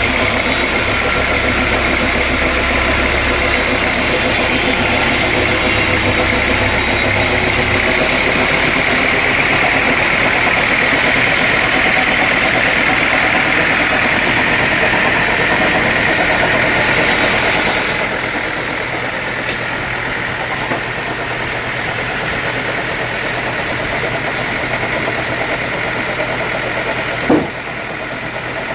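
Sawmill machinery running with a steady engine-like drone and a high whine. The sound changes about 8 seconds in and drops in level about 18 seconds in, with one sharp knock near the end.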